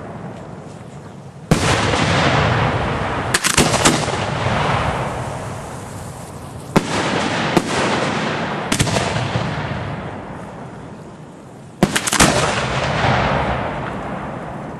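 Aerial firework shells exploding in a series of sharp bangs, each trailing off in a long fading rumble and crackle. The bangs come irregularly, with a quick run of three or four about a quarter of the way in.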